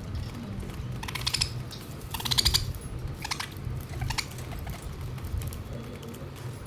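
Pet budgies making four short bursts of rapid clicking, about a second apart, over a steady low hum.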